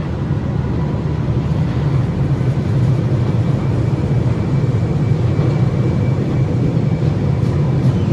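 Class 66 diesel-hauled aggregate freight train passing, a loud, steady low rumble with faint thin tones above it.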